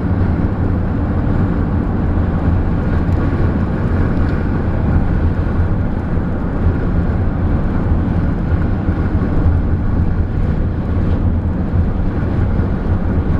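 Steady road and engine noise heard from inside a moving car: an even low drone with no change in pitch.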